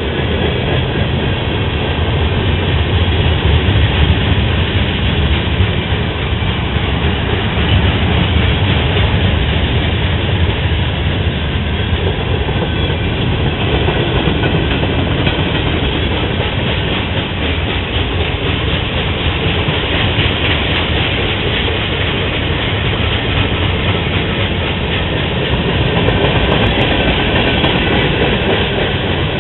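Freight train rolling past, its cars' steel wheels on the rails making a loud, steady rumble that goes on without a break.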